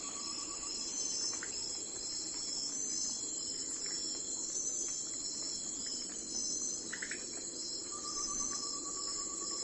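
Crickets chirping in a dense, steady chorus of high pulsing trills. A lower, evenly pulsed trill starts near the end, with a few short faint chirps scattered through.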